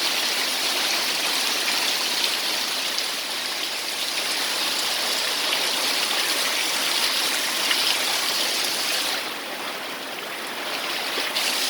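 Heavy rain pouring down in a steady hiss, briefly softer about nine seconds in before picking up again.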